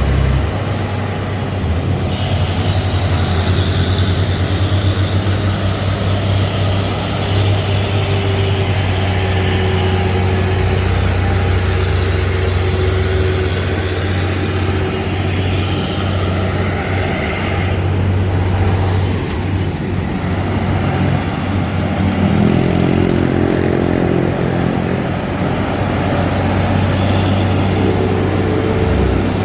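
Diesel truck engine running steadily under load, a low drone throughout, with a higher engine note shifting in pitch about two-thirds of the way through.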